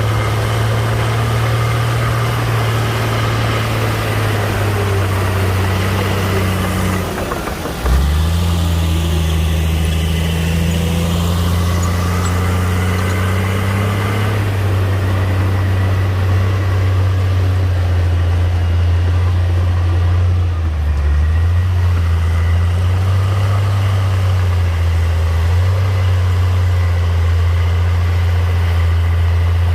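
Heavy diesel engine of earthmoving machinery running steadily, its pitch dipping and changing with load a couple of times, with a sharp knock about eight seconds in.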